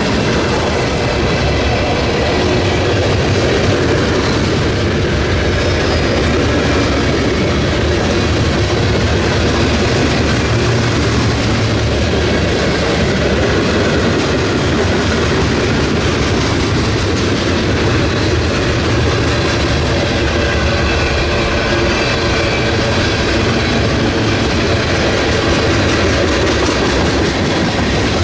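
Freight train rolling past at close range, a loud, steady run of cars with the wheels clicking over the rails.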